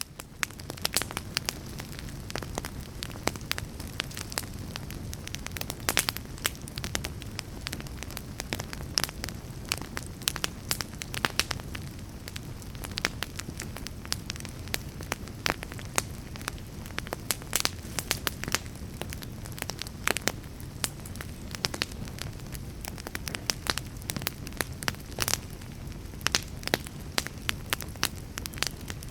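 A fire crackling: many irregular sharp pops and snaps over a steady low rumble of burning.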